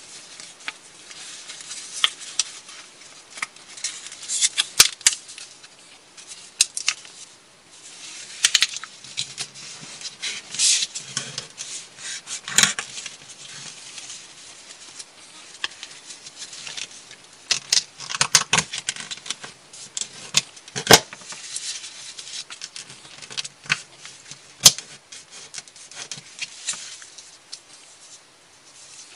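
Irregular small clicks, taps and scratchy rubbing at close range, coming in uneven clusters with short quieter gaps.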